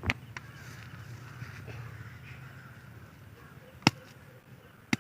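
Three sharp knocks or slaps, one near the start, one about four seconds in and one just before the end, over faint bird calls and a low hum.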